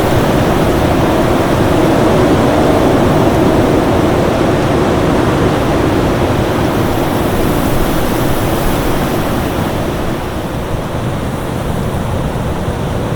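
Winter storm wind blowing steadily, with a faint steady tone running through it; it swells slightly in the middle and eases a little after about ten seconds.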